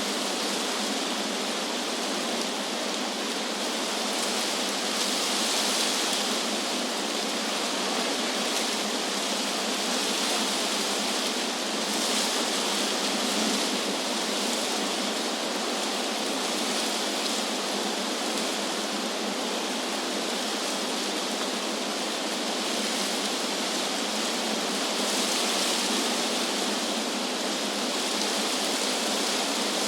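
Wind rustling through tree leaves: a steady hiss that swells gently now and then.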